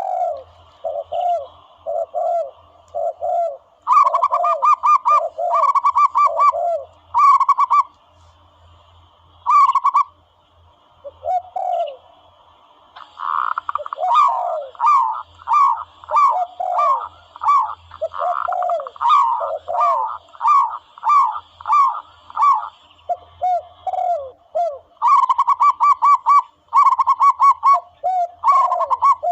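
Recorded dove calls played as a hunting lure: runs of short, quickly repeated cooing notes, higher clipped runs alternating with lower, downward-swooping notes, in bursts with brief pauses between them.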